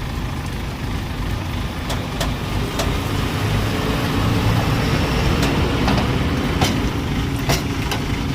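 Truck engine running steadily, growing a little louder partway through, with a series of sharp clicks or knocks over it.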